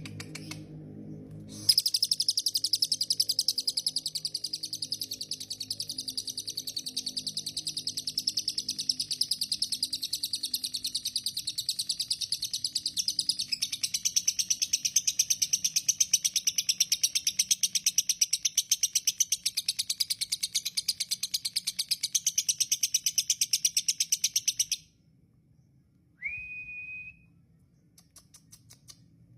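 Lovebird singing one long, unbroken, rapid chattering trill for over twenty seconds, which stops abruptly; a moment later it gives a single short rising call.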